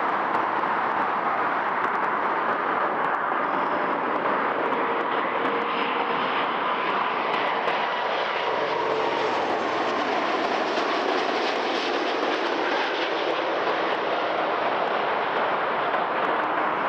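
Jet engines of an Air Canada Airbus A330 passing by, with a steady rushing noise. The sound grows brighter and more hissing around the middle, then eases off as the aircraft goes past.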